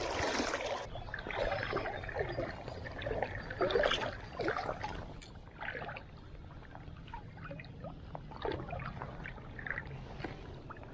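Creek water trickling and sloshing, with scattered small splashes and knocks, busier in the first half and quieter after about five seconds.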